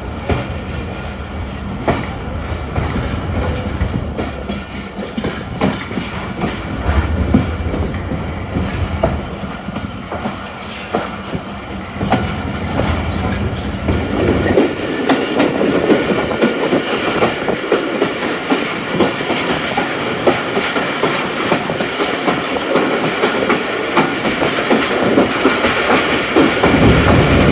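A moving passenger train heard from aboard, its wheels clicking over rail joints against a steady running rumble. About halfway through the sound changes, the deep rumble falling away and a harsher rattle taking over.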